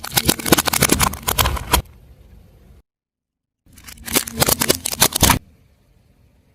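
Car tyre rolling over and crushing brittle objects: a dense run of cracks and crunches, which stops dead and then comes again for about a second and a half.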